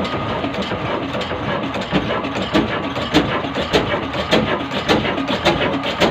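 Slow-speed desi Kala diesel oil engine running, with a steady mechanical clatter and regular sharp knocks that stand out from about two seconds in, a little under two a second.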